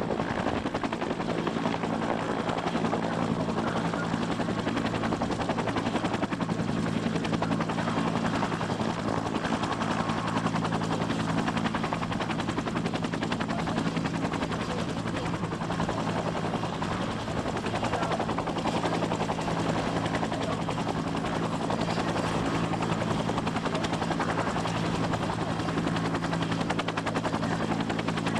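Helicopter running steadily: turbine whine and rotor chop, with a steady low hum.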